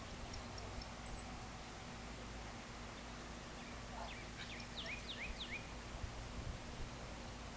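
Birds calling at dusk: a short, sharp, very high whistle about a second in, then a quick run of downward-sliding chirps in the middle. A faint steady low hum lies underneath.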